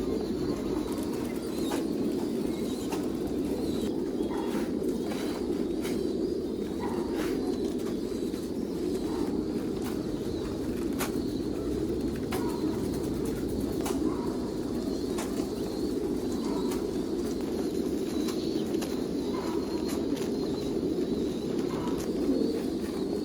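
Many pigeons cooing at once in a loft, a dense, steady chorus, with scattered short clicks.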